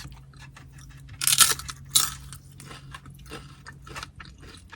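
A person biting and chewing crunchy tortilla chips topped with carne asada, close to the microphone: a loud crunch about a second in and another near two seconds, then a run of smaller chewing crunches.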